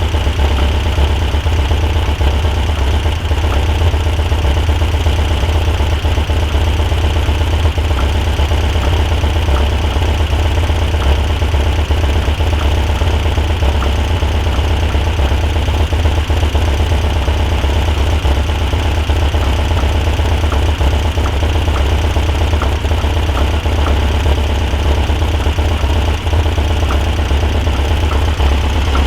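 Volkswagen Super Beetle's 1641cc air-cooled flat-four, breathing through a merged header and single quiet-pack muffler, running steadily at idle with a light ticking that comes at uneven intervals. The owner says the warm engine's noise sounds like pre-detonation at cylinder three, but adjusting the timing doesn't change it.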